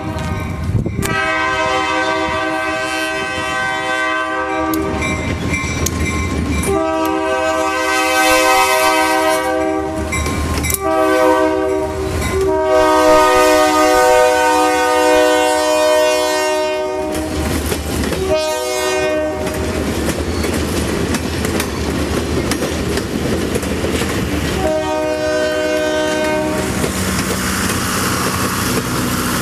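Passenger train cars rolling past close by, wheels clicking and rumbling over the rails, while the locomotive's horn sounds a long series of blasts, mostly long with a few short ones and brief breaks between them.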